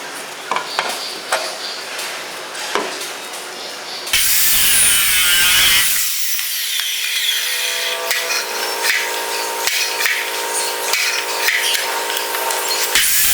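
Workshop tool work in several cut-together pieces. First come scattered sharp taps and scrapes. About four seconds in, a loud power tool starts suddenly, and from about six seconds it settles into a steady whine with regular ticks, cutting off just before the end.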